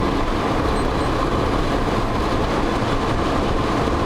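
Steady vehicle and road noise, heavy in the low end, with no breaks or distinct events.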